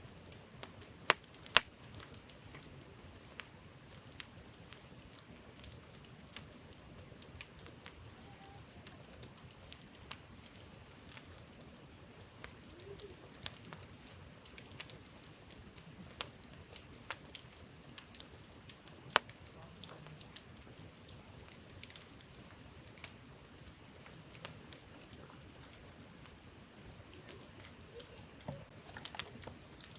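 Wood campfire crackling, with scattered sharp pops over a steady faint hiss; the loudest pops come about a second in, again just after, and about two-thirds of the way through.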